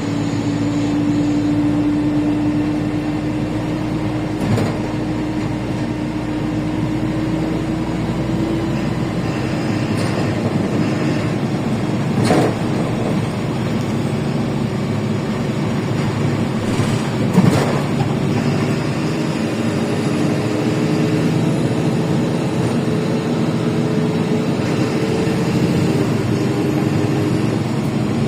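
LiAZ 5292.65 city bus with a Yuchai engine heard from inside while under way: engine and road noise with a steady whine that slowly rises in pitch, and three short sharp knocks along the way.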